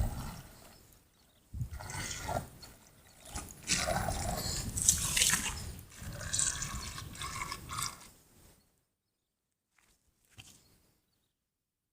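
Water splashing and dripping in irregular bursts, which stop about two-thirds of the way through.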